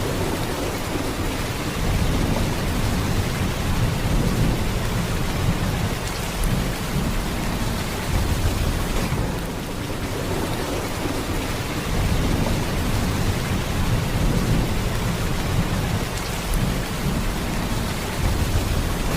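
Heavy, steady downpour of rain, a dense hiss with a strong low rumble underneath.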